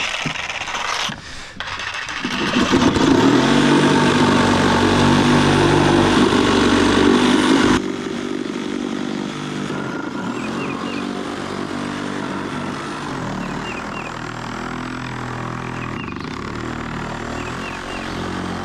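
A motor running steadily. It gets louder about two seconds in and drops back to a lower, steady level near the eight-second mark. Short bird chirps are heard in the second half.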